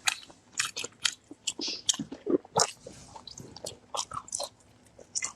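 A person chewing and biting food close to the microphone: a quick, irregular run of wet mouth smacks.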